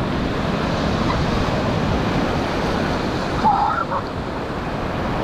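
Ocean surf washing steadily onto the beach, a constant rush of water noise with wind on the microphone. A short voice-like call cuts in briefly about three and a half seconds in.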